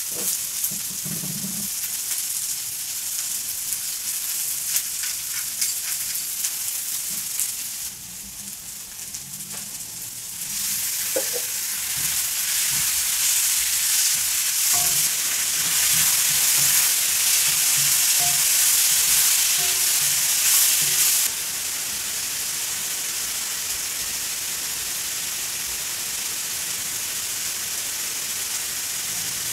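Diced vegetables frying in oil in a wok, a steady sizzle with spoon stirring. About a third of the way in, raw chicken pieces go into the pan and the sizzle gets much louder, then drops back suddenly about two thirds of the way through.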